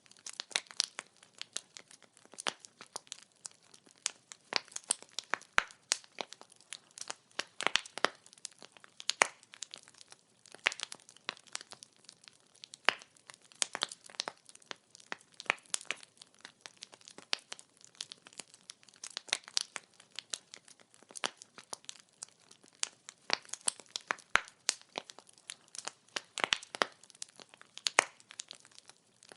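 Burning firewood crackling: a steady stream of irregular sharp pops and snaps, several a second, over a faint hiss.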